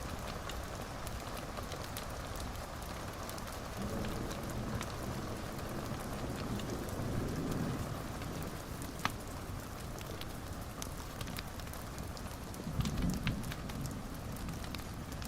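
Wood fire burning in a fireplace: a steady hiss with scattered sharp crackles and pops, a louder pop about nine seconds in and a cluster of pops near the end, over a soft low rumble that swells now and then.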